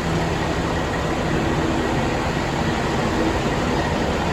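Rebuilt Cat C15 inline-six diesel in a Kenworth W900 idling steadily before its dyno run, a loud even drone without changes in speed.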